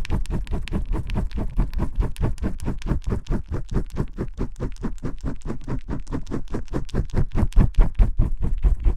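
Fingers vigorously scrubbing shampooed hair close to the microphone: a fast, even run of scratching strokes, about five a second.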